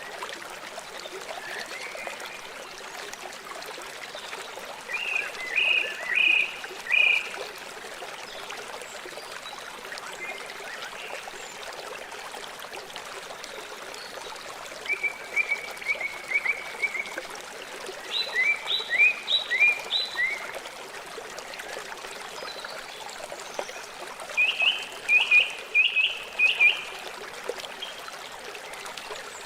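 River water running steadily, with an animal calling over it in four separate runs of quick, short, high notes; these calls are the loudest sounds.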